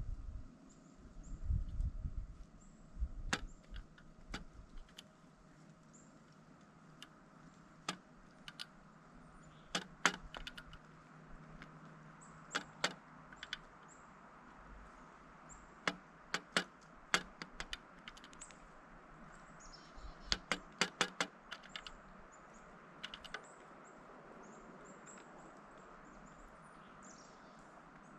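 Pileated woodpecker pecking at a suet feeder: sharp taps, some single and some in quick runs of several, with pauses between.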